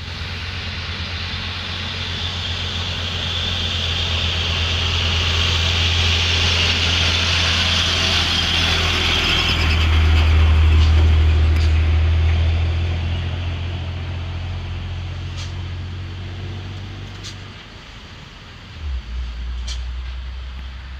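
Overloaded dump truck creeping down a steep grade: a deep diesel drone that swells to its loudest about halfway and then fades as it passes, under a high, hissing brake screech that is strongest in the first half. A short knock comes near the end.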